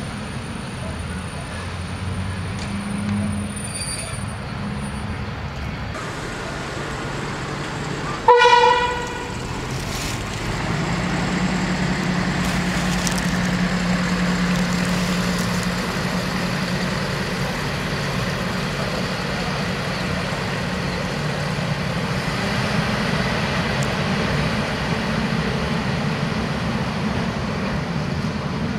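Diesel railcar sounding its horn once, a short single-tone blast about eight seconds in, then its engine running with a steady low hum.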